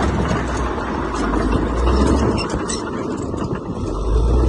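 Heavy diesel engine of earth-moving machinery running, with scattered clicks over it; the engine note eases off about three seconds in and swells again near the end.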